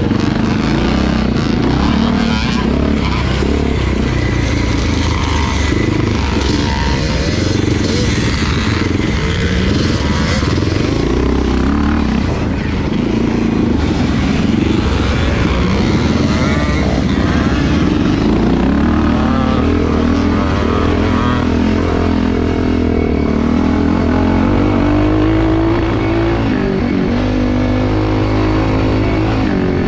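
Vintage motocross motorcycle engine running hard under racing, its pitch rising and falling continuously as the throttle is opened and closed through the track.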